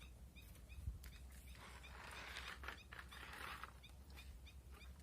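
Quiet outdoor background with a small animal chirping in a steady rapid series, about three chirps a second. A soft rush of noise lasts about two seconds in the middle.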